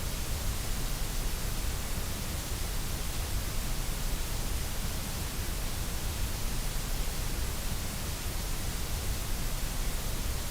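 Steady white noise: an even, unchanging hiss spread across all pitches, with a strong low rumble underneath.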